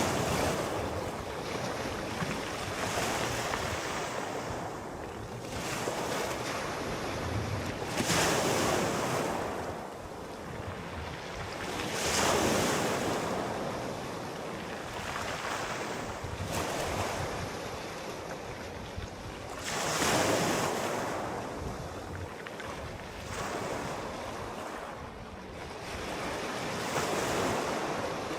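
Sea waves breaking and washing in, one rushing surge every four seconds or so, each swelling and then fading back into a steady hiss of surf.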